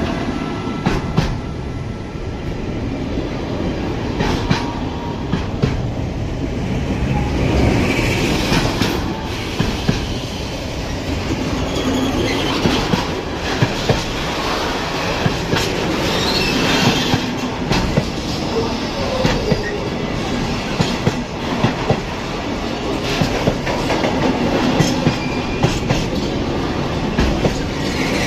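A train running past close by, its wheels clattering over the rail joints in a steady stream of clicks. Now and then the wheels let out a brief high squeal.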